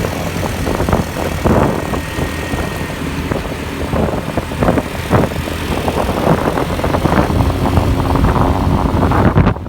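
Motorbike engine running steadily under way amid road traffic, with wind rumbling on the microphone.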